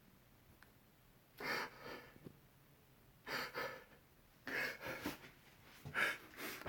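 A man breathing hard in short, sharp gasps, several breaths a second or so apart.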